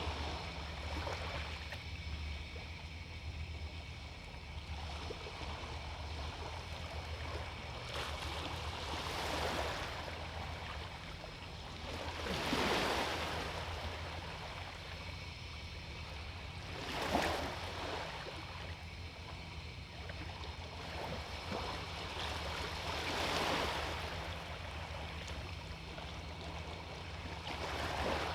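Small sea waves breaking and washing onto the beach, the surf swelling up every few seconds, loudest about 12 and 17 seconds in, over a steady low rumble.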